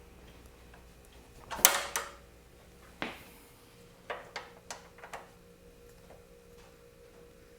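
Hand grease gun being handled and worked on a grease nipple: a loud metallic clatter, a shorter knock, then a quick run of sharp clicks.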